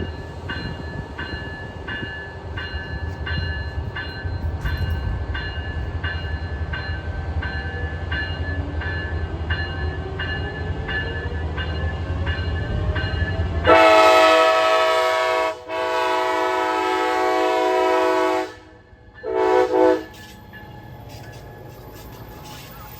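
Train rumbling past while a grade-crossing bell rings about twice a second. About fourteen seconds in the rumble drops away and a train horn sounds: two long blasts and then a short one.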